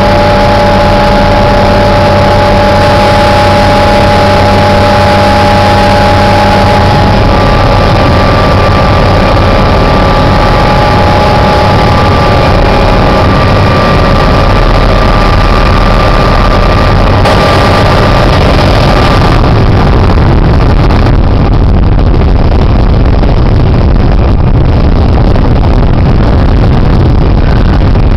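Helicopter engine and rotor noise heard from inside the cabin: a loud, steady rumble with a few held whining tones. The higher hiss drops away about twenty seconds in.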